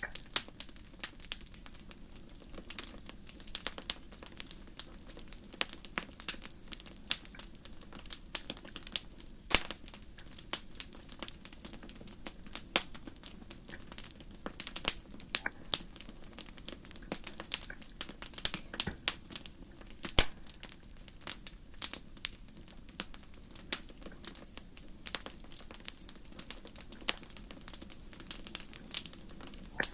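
Wood fire crackling: irregular sharp pops and snaps, some louder than others, over a faint low steady rumble of the burning.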